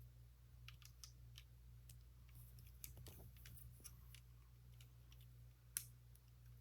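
Faint clicks and taps of small plastic Lego pieces being handled and pressed together, with one sharper click near the end.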